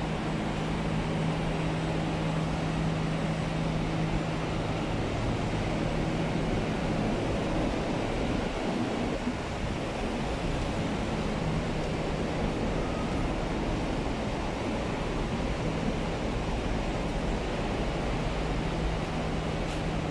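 Inside an MTR R-Train electric multiple-unit carriage: a steady rumbling noise with a low hum from the train's equipment. The hum fades about a third of the way through and comes back near the end.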